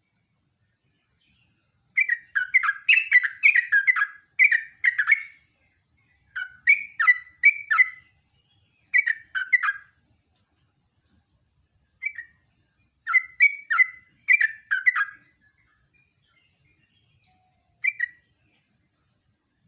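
Yellow-vented bulbul (trucuk) singing in repeated rapid phrases of bubbly chattering notes, several phrases in a row with short pauses between, and a lone short phrase near the end.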